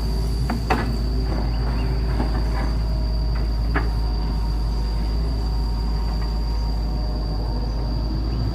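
Excavator's diesel engine running steadily with a deep rumble, with sharp metal clanks about a second in and again near four seconds.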